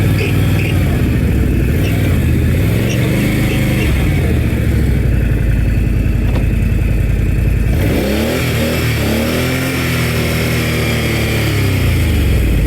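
Can-Am Outlander 570 XMR ATV's V-twin engine running, its pitch rising and falling repeatedly as the throttle is worked.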